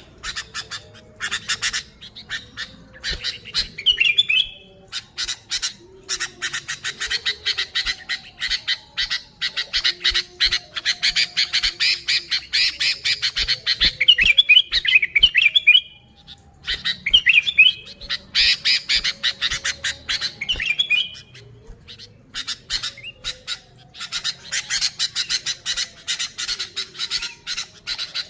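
Sooty-headed bulbul (kutilang) chattering: long runs of rapid harsh notes, broken a few times by short warbled whistling phrases.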